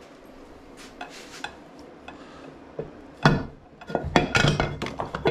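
Mostly quiet with a few faint clicks, then about three seconds in a sharp knock and a run of metallic clinks and clatters as the heated crankcase half of an Ariel LG250 engine is worked loose and lifted off the crankshaft.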